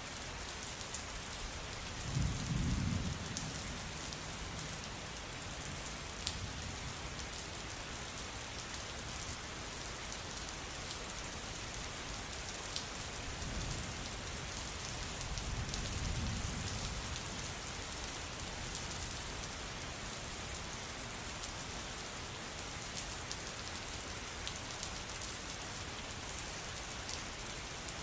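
Steady rain hissing, with scattered drip ticks. Low rumbles of thunder come about two seconds in and again around the middle, the second one longer.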